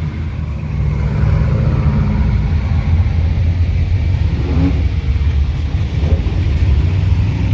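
Classic car engines running close by, a loud, steady low exhaust rumble.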